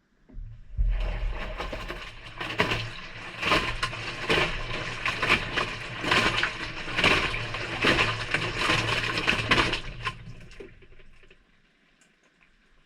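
Maytag front-loading washing machine's drum turning on a delicate cycle, heard from inside the drum: wet laundry and water sloshing and dropping about once a second over the motor's low hum. It starts about half a second in and winds down to a stop near the end.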